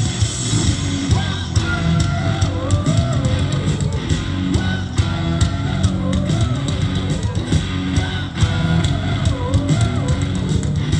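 Rock band playing live: electric guitars and drum kit, loud and dense, with a wavering melody line entering about a second in.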